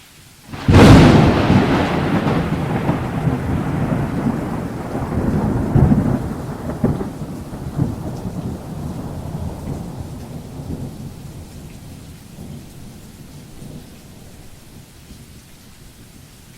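A thunderclap breaks sharply about a second in and rolls on as a long rumble, swelling again a few times before it slowly dies away, with rain hissing underneath.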